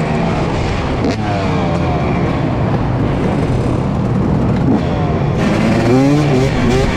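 Motorcycle engine revving up and down while riding, its pitch rising and falling repeatedly, with a sharp dip about a second in.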